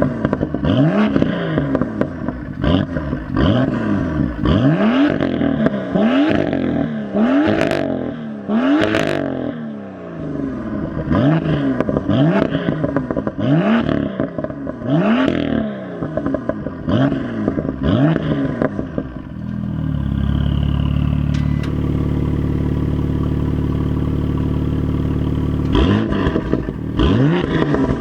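BMW M2 LCI's turbocharged inline-six through an M Performance exhaust, revved in quick blips about once a second, with a few sharp pops as the revs drop. About twenty seconds in it holds a steady engine speed for several seconds, then the quick blips start again near the end.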